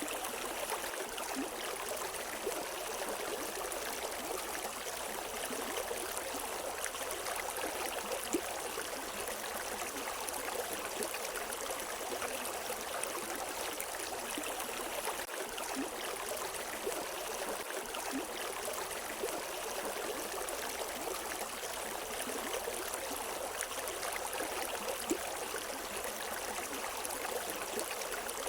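A river stream flowing steadily over rocks, a continuous rushing with small splashes and trickles, and no birdsong.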